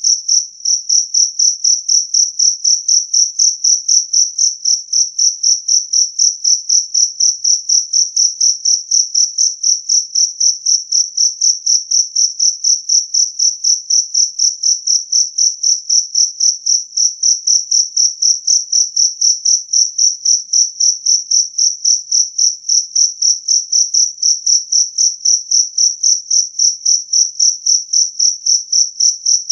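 A jangkrik kalung (two-spotted field cricket) singing loud and clear: a high, evenly spaced chirping at about four chirps a second that never lets up.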